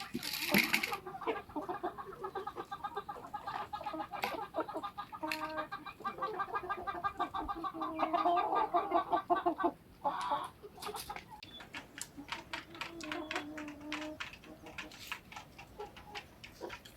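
Village chickens clucking: a busy stretch of short, repeated calls that thins out about ten seconds in, with one loud, sharp squawk near the start.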